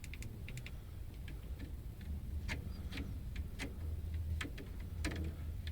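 Light, irregular clicks of keys and buttons being pressed, a few a second, over a low steady hum: someone working studio controls to choose a track to play.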